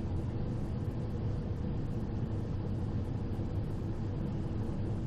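Steady cockpit noise of a Cessna Citation XL jet on final approach: the rumble of its engines and airflow, with a few faint steady tones underneath.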